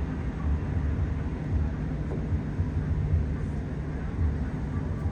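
Wind buffeting the microphone on the deck of a moving cruise ship: a low, uneven rumble that swells and drops.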